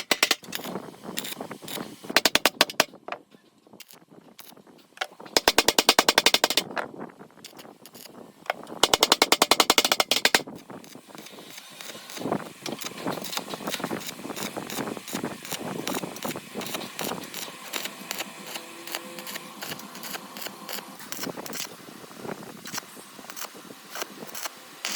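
Several bursts of a power tool hammering very rapidly, each lasting a second or two, then irregular clicks, taps and knocks of hand work on metal parts.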